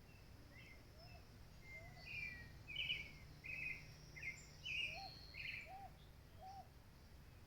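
Birds calling: a run of about six short, loud chirps from about two to six seconds in, with a few soft, lower short notes between them, over a faint steady low background rumble.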